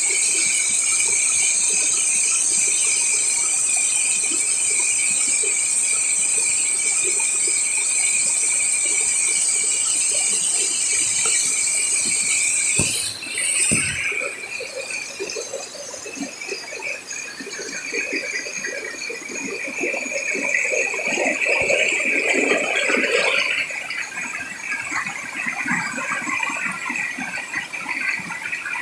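Insects shrilling in a steady chorus of several high, unbroken tones. About halfway through the sound changes abruptly: the shrill chorus drops out, leaving a softer single insect tone over a rushing, splashing noise that swells and fades again.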